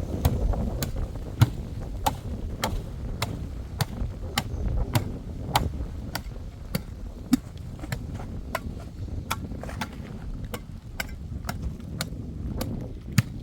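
Hand-tool strikes repeated steadily, about two to three sharp knocks a second, over a low rumble.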